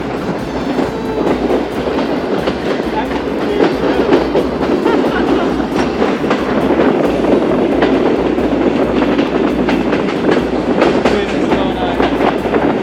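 Passenger train running at speed: a loud, steady rumble and rushing noise, with the wheels clicking over rail joints throughout.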